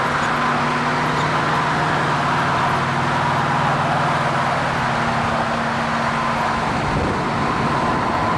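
Car engines and tyres at steady highway speed, with road and wind noise. A steady engine note runs underneath and drops out about seven seconds in.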